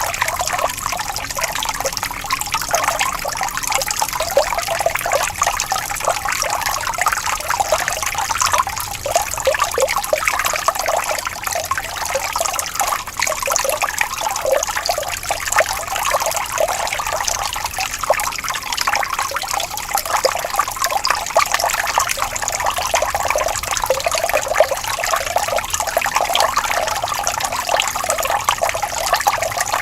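Water trickling and babbling steadily in a small stream, with a continuous bubbling, splashing texture.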